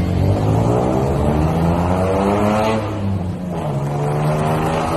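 A motor vehicle engine accelerating: its pitch rises for about three seconds, drops, then rises again.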